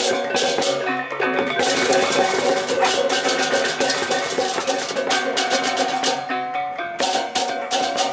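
Balinese gamelan music: ringing metallophone and gong tones over a dense stream of clashing cymbal strokes and drums.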